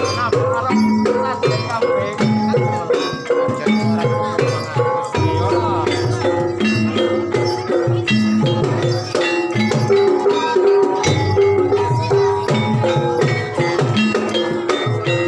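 Banyumasan ebeg (hobby-horse dance) accompaniment music: hand drums keeping a busy, steady beat under ringing notes from struck tuned percussion in gamelan style.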